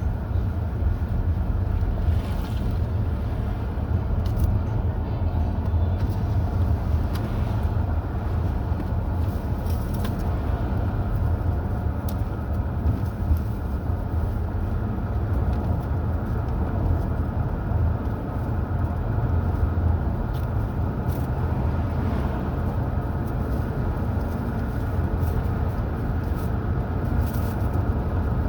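Car driving at a steady speed on a mountain highway: a continuous low rumble of engine and tyre noise, unchanging throughout.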